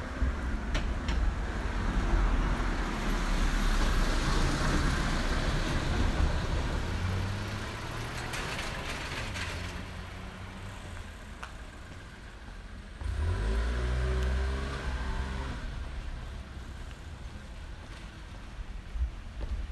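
Motor vehicles passing on a city street; about two-thirds of the way through, a vehicle's engine comes in suddenly and rises in pitch as it pulls away.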